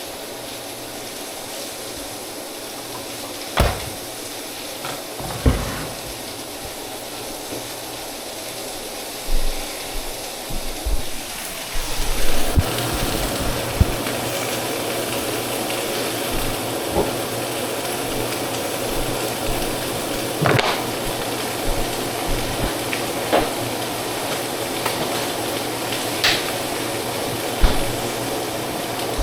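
Food sizzling in a frying pan, the sizzle stepping up louder about twelve seconds in, with occasional knocks of a utensil against the pan.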